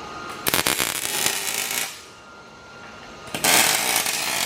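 Welder crackling in two bursts of about a second and a half each, as the last welds are laid on a stainless exhaust pipe.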